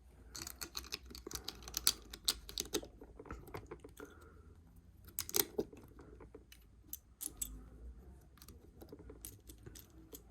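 Plastic Lego bricks and pieces clicking and rattling as they are handled and pressed together, a stream of irregular sharp clicks with occasional quick clusters.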